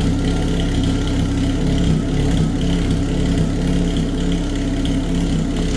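Pontiac Sunbird's engine idling steadily through a newly fitted homemade muffler and long tailpipe, a lot quieter than with no muffler.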